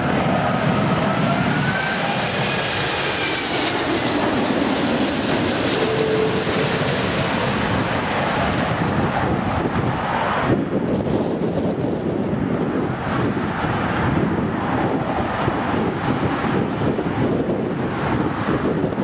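Jet airliner's engines passing with a whine that glides up and down in pitch, then fading into a rumble. Wind buffets the microphone in gusts through the second half.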